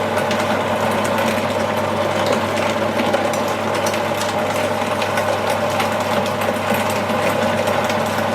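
Electric meat grinder motor running steadily with a constant hum, with irregular faint ticks over it.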